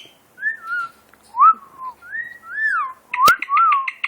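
Hawk-headed parrot giving a string of clear whistled notes that slide up and down, then a rapid chattering run of short notes, about six a second, near the end, with a sharp click just after three seconds in.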